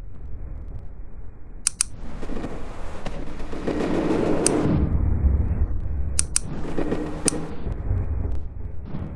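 Motorcycle engine running hard under a heavy low rumble. A rough, crackling noise swells from about two seconds in to about five seconds, and again near seven seconds, with a few sharp clicks along the way.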